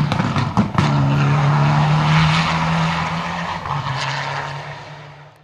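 Rally car at speed on a special stage. Its engine holds a steady high-revving note after a few sharp cracks in the first second, then fades away near the end.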